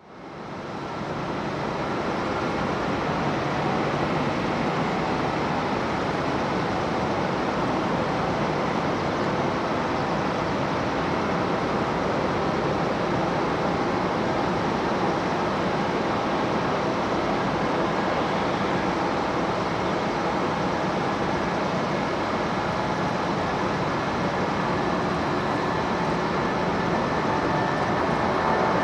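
Jet engines of a Boeing 747-400F running, a steady loud rushing noise with faint high whining tones, swelling louder near the end.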